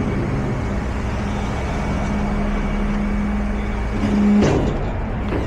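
Tow truck's engine running steadily with a low hum, with a brief louder swell and a short burst of noise about four and a half seconds in.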